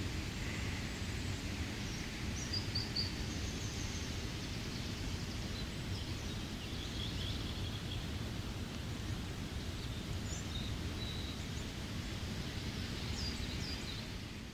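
Steady rain with forest birds giving short, high chirps every few seconds over it, fading out at the very end.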